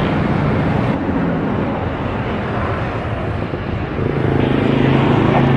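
Jet airliner's engines running with a steady roar, growing somewhat louder with a low hum about four seconds in.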